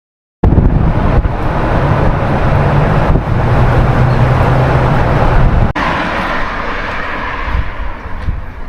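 Car driving: steady engine and road noise with a low hum, starting abruptly out of silence. It changes suddenly to a quieter road noise about six seconds in.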